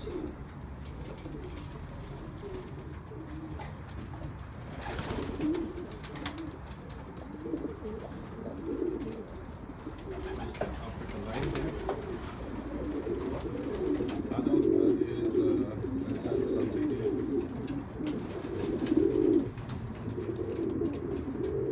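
Domestic pigeons cooing in a loft, many low coos overlapping continuously and growing busier and louder in the second half, with a couple of brief clicks along the way.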